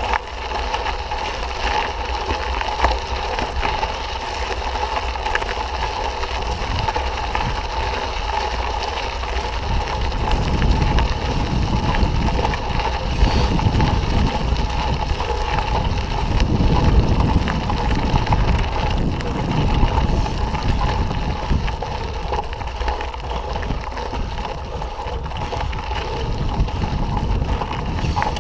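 Riding noise from a mountain bike picked up by a camera on the ride: wind rumbling on the microphone, heavier from about ten seconds in until about twenty-two seconds, over a constant steady hum.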